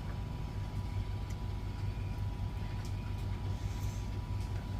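Steady low hum with a faint thin whine above it, and a few light clicks.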